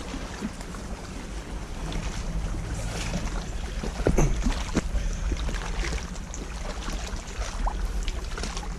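Low rumble of wind on the microphone, with scattered small crackles and a brief louder low sound about four seconds in.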